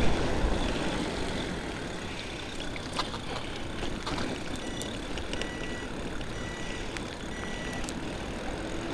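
Steady wind and road noise from riding a bike in the rain, with two knocks and then a run of short, high, evenly pitched beeps in the second half.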